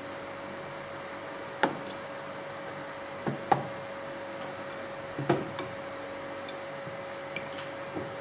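A few scattered light knocks and clicks, about seven in all, from drill parts and tools being handled, over a steady background hum.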